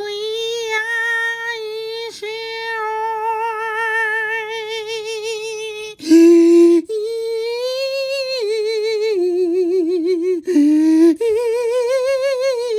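A high voice humming or singing long, wavering held notes that slide up and down in pitch. Two short, louder, lower and harsher notes come about six and ten and a half seconds in.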